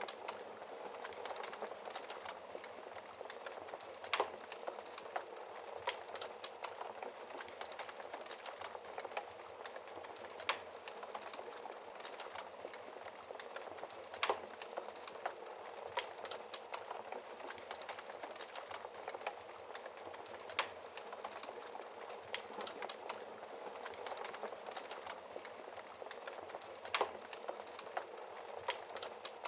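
Fire crackling: a dense, steady stream of small crackles with a sharper, louder pop every few seconds.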